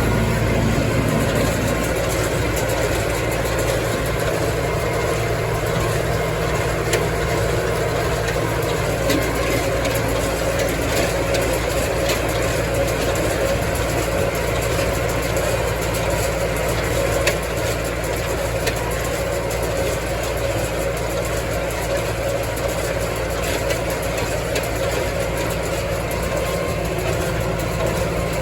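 Massey Ferguson tractor engine running steadily, driving a Massey Ferguson 124 small square baler while baling hay.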